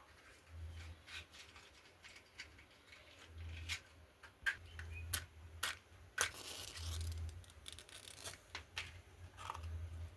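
Irregular sharp clicks, taps and scraping, with a short rustle about seven seconds in.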